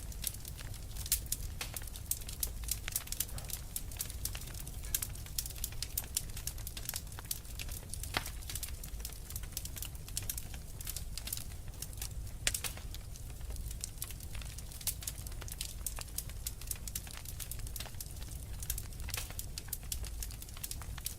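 Wood fire crackling in a fireplace, with many small irregular pops and snaps and a few louder ones, over a steady low rumble.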